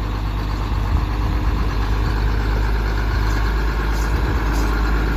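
Truck engine idling steadily close by, a constant low running sound.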